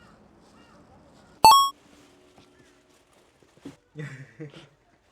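A single short, loud, high-pitched beep about one and a half seconds in, with faint voices later.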